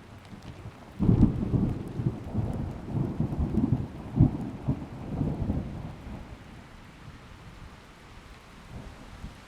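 Steady rain falling, with a loud thunderclap about a second in that rolls and rumbles for several seconds before fading back to the rain.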